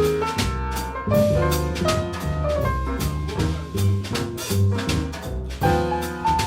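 Small jazz group playing live: double bass notes under drum-kit cymbal strokes, with a melody line above.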